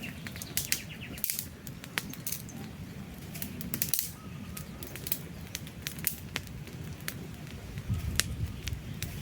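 Wood campfire burning, with irregular sharp crackles and pops from the logs over a steady low rumble of flame. A bird's rapid chirping trill fades out about a second in.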